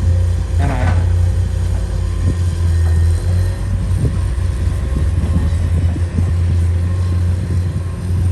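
Diesel engine of heavy road-building machinery running with a steady low drone. Scattered light knocks and clanks sound over it.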